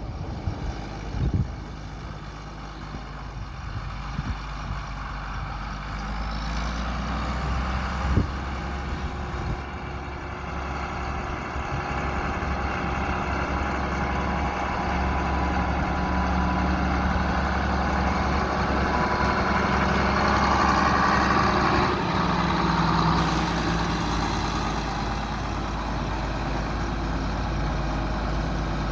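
John Deere 4650 tractor's six-cylinder turbocharged diesel engine running steadily, growing gradually louder through the first two-thirds. There is a sharp knock about a second in and another about eight seconds in.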